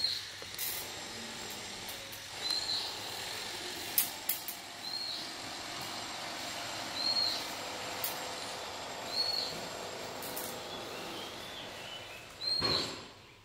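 A bird calls a short rising-and-falling note about every two to three seconds over a steady hum of distant traffic. A few sharp knocks fall between the calls, and a louder rush of noise swells and fades near the end.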